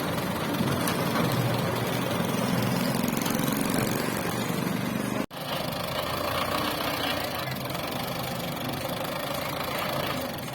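Tractor engine running steadily. The sound cuts out for an instant about halfway through and comes back thinner in the low end, as at an edit.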